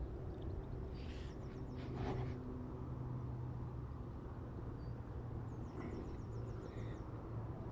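Steady low engine hum, as of distant traffic, with a few short runs of faint high chirps.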